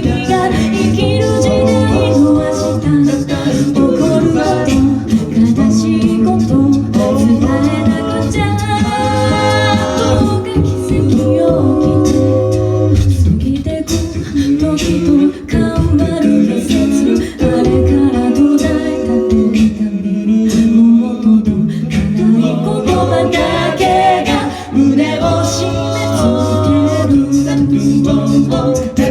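A cappella vocal music: several layered singing voices carrying a melody and harmony over a sung bass line.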